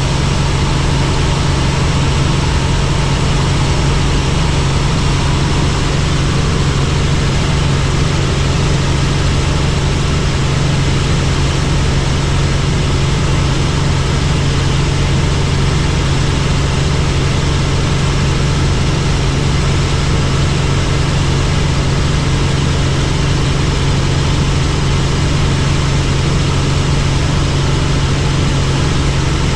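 Helicopter in flight, running steadily: a loud, even drone with a strong low hum that does not change.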